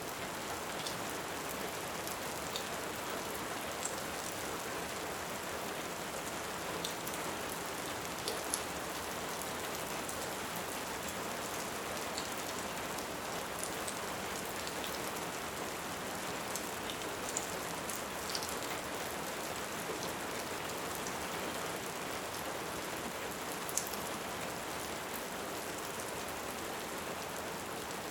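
Steady rain hiss with scattered sharp crackles and pops of a wood fire.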